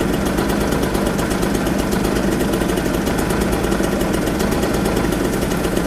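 Two-stroke moped engine running steadily, with even rapid firing pulses.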